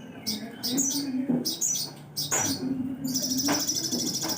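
Sogon songbird singing: a run of short high chirps, then about three seconds in a long, fast, even trill.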